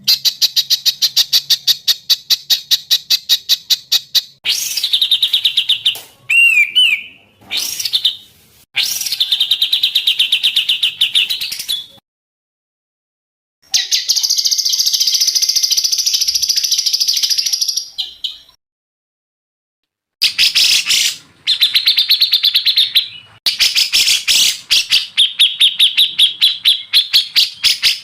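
Recorded songbird song: fast trills of evenly repeated high notes, about eight a second, in phrases of a few seconds that stop abruptly between one another, with a brief warbling glide about six seconds in.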